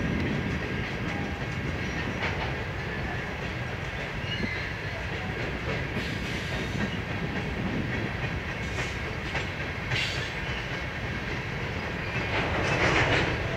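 Freight train cars rolling past: a steady rumble of steel wheels on rail with occasional clacks over the rail joints. It grows louder for a moment near the end.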